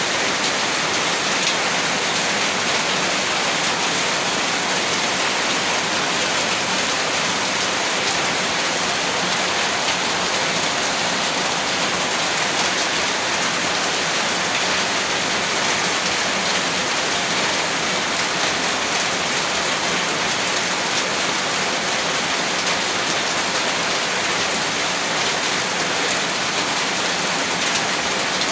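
Heavy rain falling steadily, a dense unbroken hiss with no thunder or separate events.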